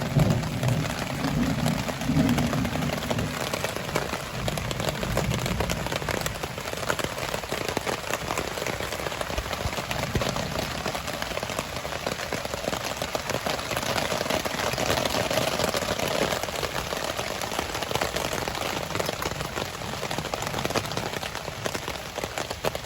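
Rain falling steadily on a campsite awning overhead, heard as a dense even hiss full of small drop ticks. A low rumble sits under it during the first few seconds.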